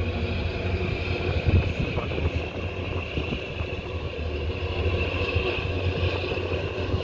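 Steady low engine drone with a constant hiss above it, unchanging throughout.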